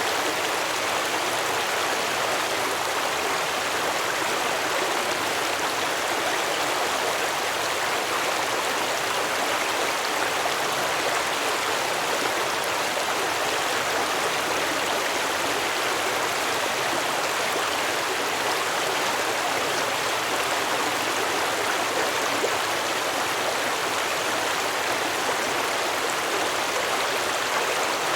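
Stream water flowing and babbling over rocks, a steady rushing with no change.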